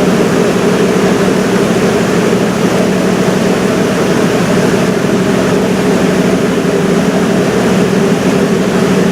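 Steady drone of a river cruise boat's engine heard on board, a low hum of several steady tones over a constant hiss of wind and water.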